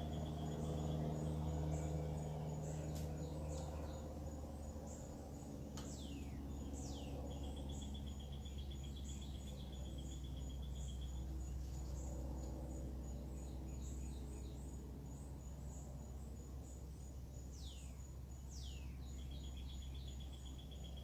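Backyard birdsong: pairs of falling whistled notes and a fast, even trill, repeated several times, over a steady low hum. A faint, high, fast ticking runs underneath.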